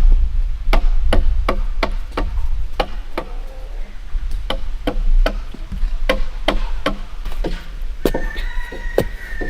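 Chopping into wood with a bladed tool, a steady run of sharp strikes about two a second.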